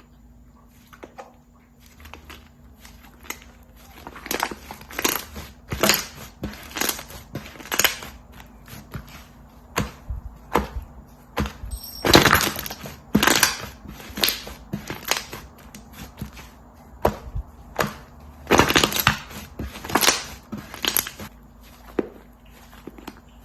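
Crunchy slime being pressed and squeezed by hand, giving a run of irregular crackling crunches. It starts sparse, then grows busier, with the loudest crunches about twelve seconds in and again around nineteen to twenty-one seconds.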